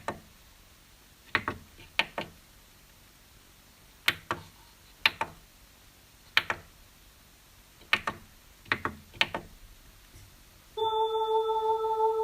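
Scattered sharp clicks or knocks, some in quick pairs, over faint hiss. Near the end a loud, steady held note comes in abruptly, the start of the hidden track.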